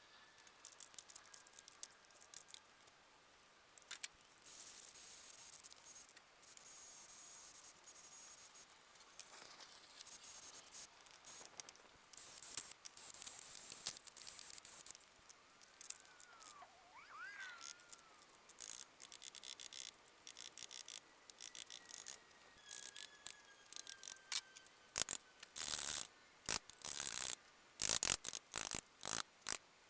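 Workshop sounds from fitting a backhoe attachment, played back twenty times faster than real time: a jumble of quick clicks and scratchy chirps. In the last few seconds it turns into a run of loud, sharp knocks.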